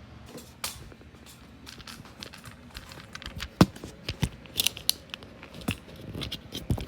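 Handling noise close to the microphone: irregular clicks, taps and rustles, with one sharper click about halfway through.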